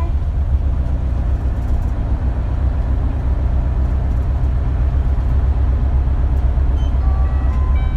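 Inside the cabin of an Isuzu KL-LV280L1 city bus on the move: its diesel engine makes a steady, deep drone under road noise. Near the end, a few faint, short high tones sound over it.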